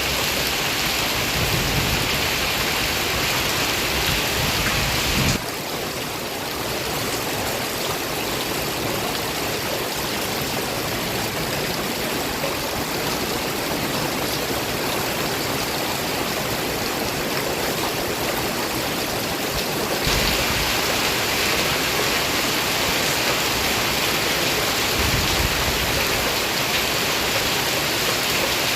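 Heavy rain falling in a steady, dense hiss. About five seconds in it turns slightly quieter and loses its low rumble, and about twenty seconds in the fuller, rumbling downpour returns.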